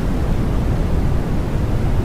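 Steady rushing noise from a white-noise track, heaviest in the low end, with no distinct raindrops or pigeon calls standing out.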